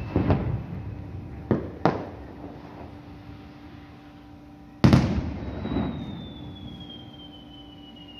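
Aerial fireworks shells bursting: a bang just after the start, two sharp cracks about one and a half and two seconds in, and the loudest boom about five seconds in, each trailing off in a rumbling echo.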